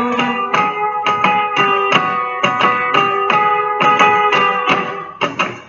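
Fado music: an instrumental passage of plucked guitars playing quick repeated notes, with no singing. It thins out briefly near the end.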